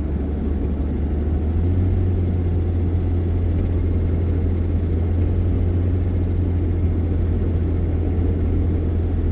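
Vehicle engine and road noise heard from inside the cab while driving: a steady low drone that steps up slightly about two seconds in.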